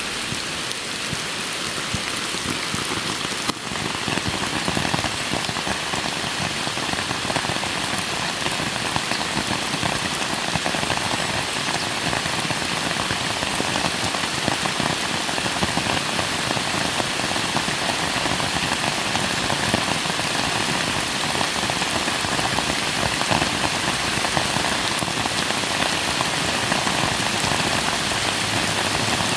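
Steady rain falling, with a dense scatter of individual drops striking surfaces.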